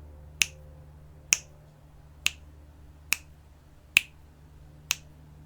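A sharp click repeating at a steady pace, a little faster than one a second, six in all, keeping the count through a 12-count breath hold. A faint low hum lies underneath.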